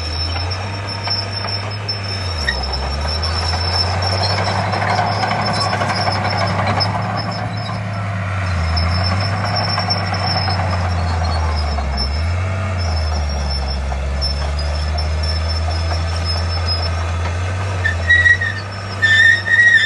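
Heavy earthmoving machinery with a diesel engine working under changing load; its low engine note dips and recovers several times. A louder noisy wash swells through the middle, and short high squeals come near the end.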